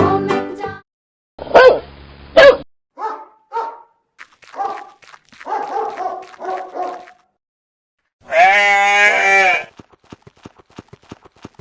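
A dog barking: two loud barks, then a run of shorter, quieter barks. Then a goat gives one long, wavering bleat, followed by a quick run of faint ticks.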